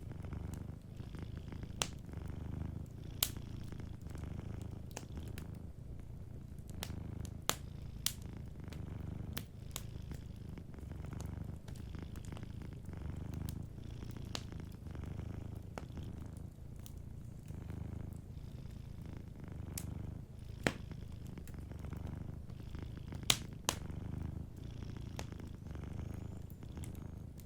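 Domestic cat purring steadily, the low purr swelling and easing with each breath, over a wood fire crackling with scattered sharp pops.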